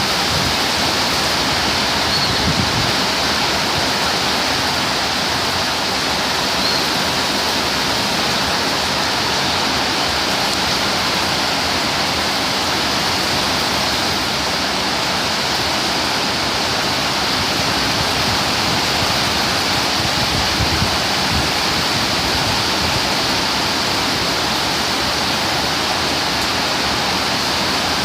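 Torrential tropical rain pouring down in a steady, even hiss, with brief low rumbles of wind gusts buffeting the microphone a couple of seconds in and again about two-thirds of the way through.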